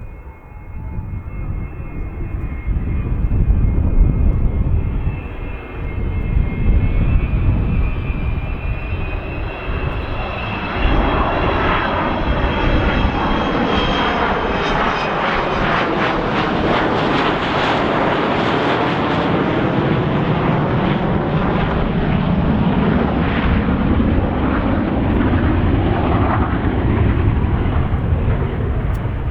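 Avro Vulcan's four Rolls-Royce Olympus turbojets at takeoff power. The whine climbs slowly in pitch, then about eleven seconds in the engine noise jumps suddenly louder and stays loud, with a sweeping, phasing sound as the jet passes.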